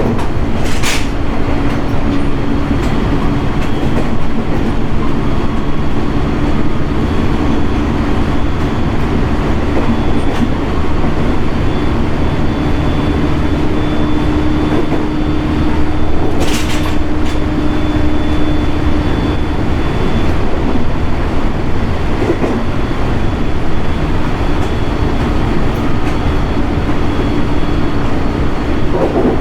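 JR East 701 series 1000 subseries electric train running at a steady speed: continuous wheel and running noise with a steady low hum and a faint high whine. Two brief sharp clicks are heard, about a second in and again midway.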